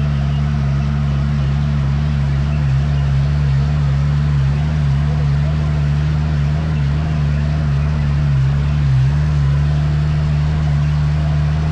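Dune buggy engine running with a steady low drone, its pitch wavering only slightly, under a continuous noisy hiss.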